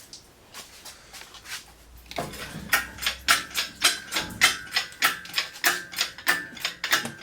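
Engine hoist being pumped to lift an engine out of a truck: sharp metallic clicks, about three a second, with a light ring. The clicking starts about two seconds in.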